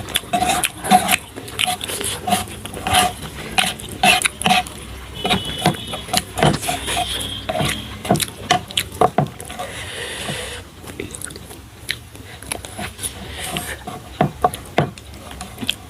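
Close-up eating sounds: a person slurping and chewing spicy instant noodles, with many irregular wet smacks and clicks and a few short breathy slurps.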